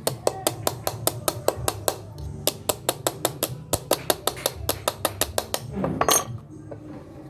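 Rapid, even metallic tapping, about five light strikes a second, then a louder clattering scrape about six seconds in.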